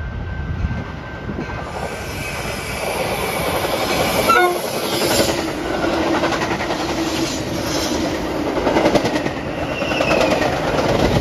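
Metra commuter train of stainless-steel bilevel cars running through the station at speed without stopping. Its rumble builds and peaks about four seconds in as the head end passes, with a short horn note that drops in pitch. After that comes the steady clatter of the cars' wheels on the rails.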